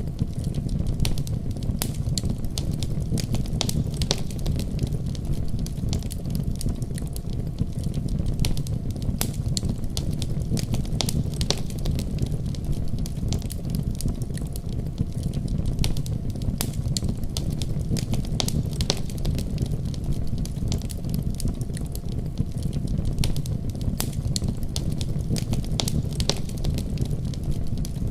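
Wood fire crackling in a fireplace, with frequent irregular sharp pops and snaps, over a steady deep rumble of storm wind.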